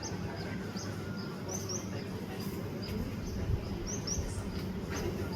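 Birds chirping: short, high chirps repeated every fraction of a second, over a steady low background rumble.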